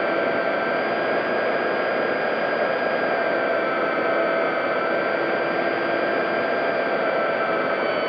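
Electric motor and propeller of an FMS P-40B Warhawk 1400mm RC model plane in flight, heard from a camera mounted on the plane: a steady motor whine at a nearly constant throttle over a rush of propeller wash and wind.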